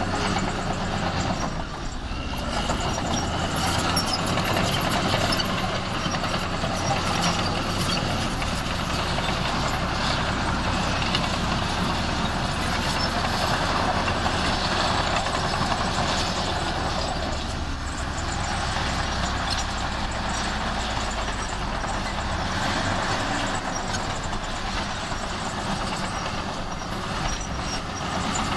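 Heavy diesel earthmoving machinery running continuously, its sound swelling and easing a few times.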